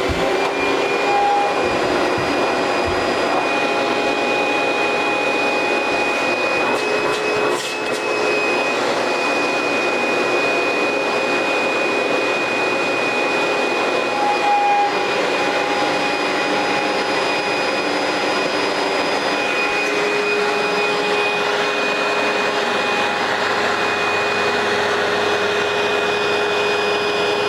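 Amway ClearTrak bagless vacuum cleaner running steadily, a high whine over its motor and airflow noise, with a brief dip in level about eight seconds in.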